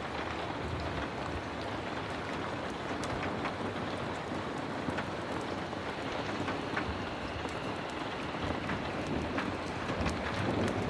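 Heavy rain falling steadily, a dense even hiss dotted with scattered small ticks.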